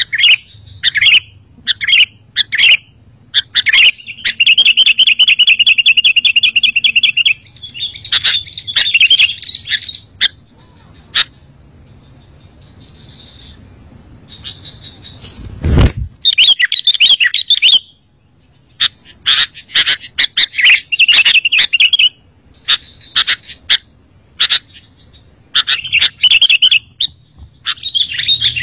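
Sooty-headed bulbul (kutilang) calling in quick bright bursts, with a long rapid trill a few seconds in. The calls pause midway, one loud thump breaks the pause, and then the chattering resumes.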